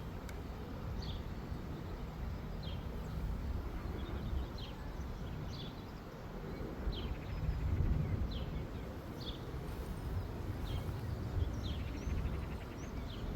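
Small birds chirping, short falling calls about once a second, over a steady low outdoor rumble.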